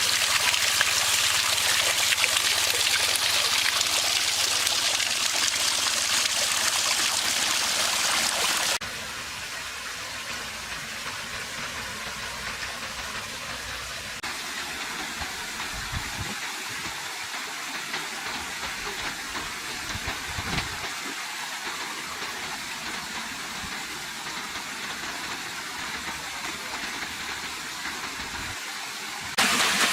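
Artificial waterfall's water pouring and rushing steadily. It drops abruptly to a softer hiss about nine seconds in and comes back at full strength near the end.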